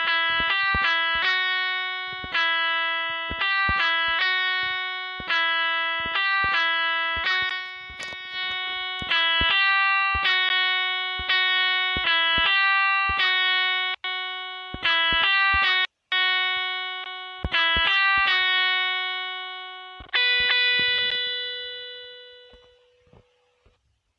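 A melody of single plucked, guitar-like notes, each struck sharply and left to ring and decay. There is a brief break in the sound about two-thirds of the way through, and the last note rings out and fades away near the end.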